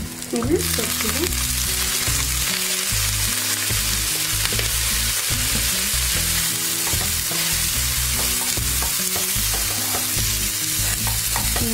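Chilli chicken sizzling in a hot non-stick frying pan. The sizzle jumps louder about half a second in, as lemon juice is poured onto the hot pieces, then goes on as a steady, even hiss.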